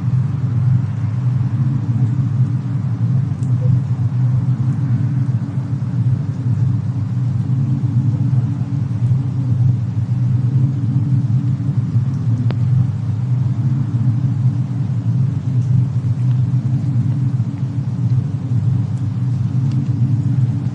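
Steady low rumble of a fireplace-and-snowstorm ambience, with a few faint, scattered fire crackles.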